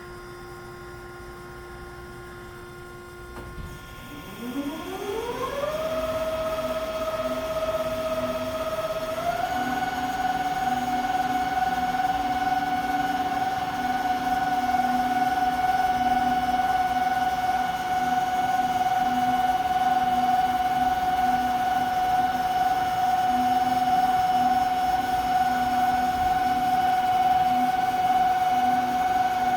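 Hyd-Mech V-20 vertical band saw's 10 HP blade drive starting up: a whine that rises in pitch over about two seconds, then runs steady, stepping up slightly in pitch about nine seconds in.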